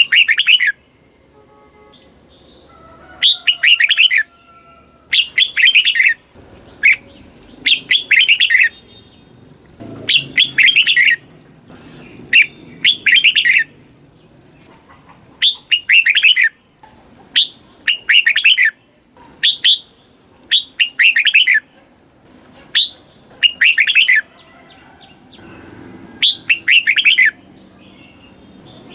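Red-whiskered bulbul singing: short, fast chirping phrases about a second long each, repeated with pauses of a second or two between them.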